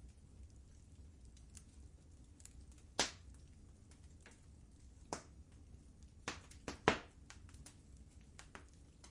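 Wood fire crackling in a fireplace: scattered sharp pops over a low steady rumble, with the loudest pops about three seconds in, around five seconds, and a quick cluster of three near seven seconds.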